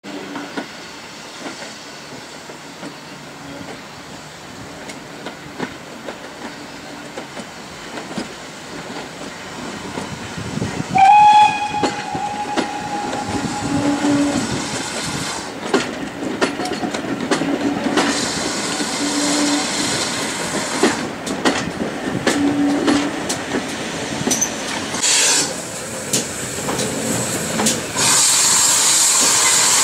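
Steam train hauled by GWR 6400 class pannier tank 6430: a steam whistle sounds for about three seconds a third of the way in, then the train runs on with wheels clicking over the rails. Near the end a loud, steady hiss of steam sets in.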